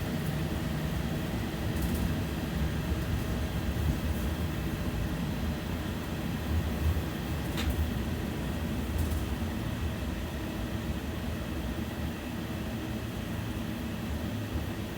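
Belkommunmash BKM 60102 tram running along the track, heard from inside the passenger cabin as a steady low rumble, with a single sharp click about halfway through.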